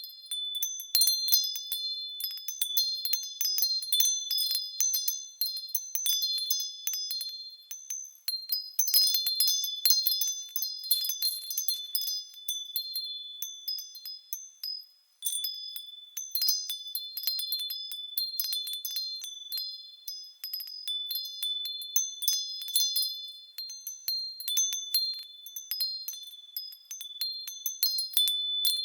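Japanese fūrin wind chime ringing as the wind swings it, struck again and again in irregular clusters of a few high, clear tones. About halfway through the ringing dies away almost to nothing, then picks up again.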